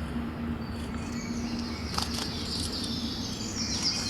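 Birds chirping in short, quick trills, over a low steady hum that stops a little under two seconds in. A single sharp click comes about two seconds in.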